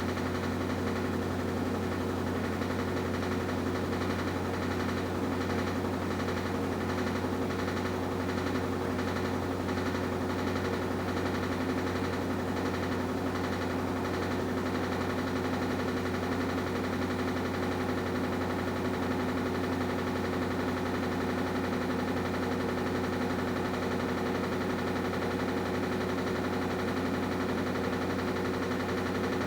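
Washing machine running: a steady motor hum, with a rhythmic swishing pulse over it through the first half.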